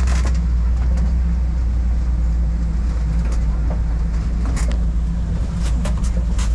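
Safari ride truck driving along, its engine and body making a steady low drone. A few sharp rattles or knocks come from the vehicle, near the start and again in the last two seconds.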